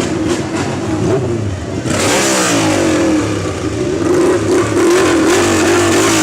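Motorcycle engine with an open exhaust revved while standing in neutral: it runs at a fast idle, is blipped sharply about two seconds in, and falls back to idle.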